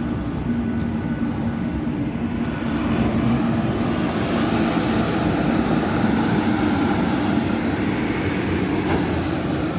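EP2D diesel multiple unit under way, heard from inside: a steady rumble of running noise with a low engine hum, growing a little louder about three seconds in.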